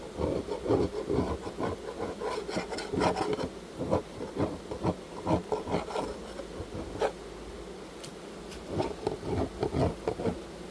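Fresh beeswax being scraped off a beehive lid in quick, repeated rasping strokes. The strokes pause about two-thirds of the way through, then a few more follow.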